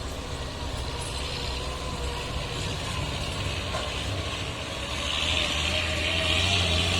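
Quarry dump truck's engine running steadily, getting louder about five seconds in.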